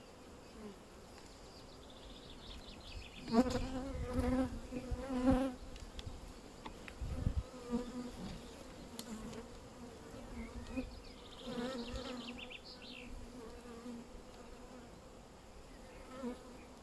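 Honeybees buzzing around an opened hive during a frame inspection, with individual bees flying close past the microphone and buzzing louder about three seconds in and again about eleven seconds in. A few low bumps from handling the frames.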